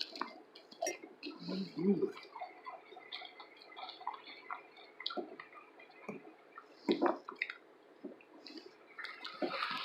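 Close-up eating sounds: chewing with small wet mouth clicks and lip smacks scattered throughout, and a short low hum of pleasure about two seconds in.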